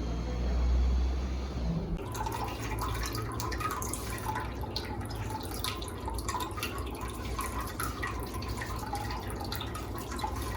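For about the first two seconds a vehicle engine hums low and steady; then, after an abrupt change, water drips and trickles continuously into a basin in a small enclosed room, an uneven patter of drops over a steady running-water noise.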